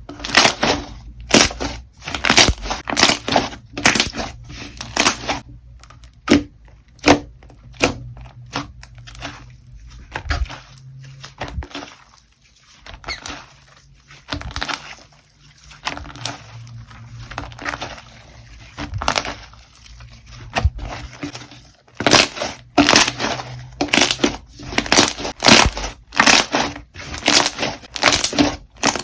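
Slime being squeezed, poked and pressed by hand: a quick series of short, crisp squishing sounds, several a second. They thin out in the middle and come fast again near the end.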